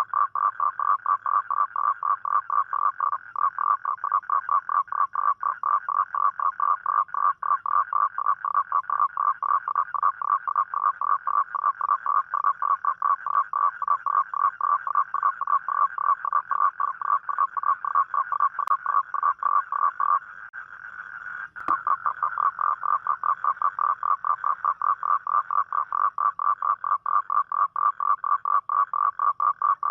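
Toad calling: a long, steady run of short, evenly spaced croaking pulses, pausing briefly about two-thirds of the way through before carrying on.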